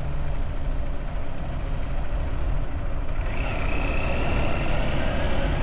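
Motorbike running on the road, its engine mixed with a dense low rumble of wind and road noise. A thin, steady high whine comes in about three seconds in.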